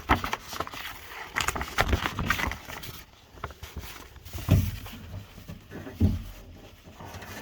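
A truck door's rubber window-channel gasket being pulled down and worked into the channel by hand: irregular rubbing and scraping, with two heavier thumps in the second half.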